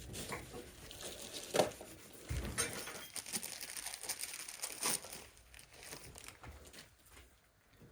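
Scattered clicks, knocks and rustling from transmission parts being handled and set down on a workbench, with one duller thump about two and a half seconds in.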